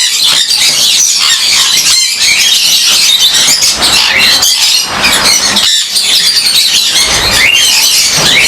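A flock of Jenday conures screeching loudly without a break, many harsh, high calls overlapping one another.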